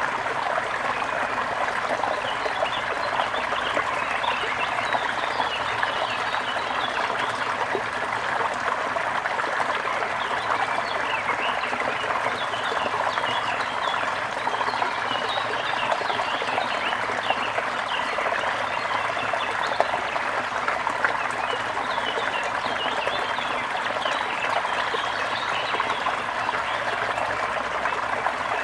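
Trickling stream water with many small birds chirping over it.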